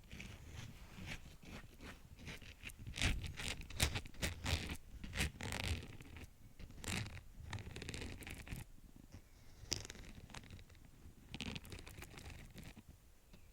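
ASMR scratching and tapping: quick, irregular scratchy strokes and taps, thickest in the first half, then sparser.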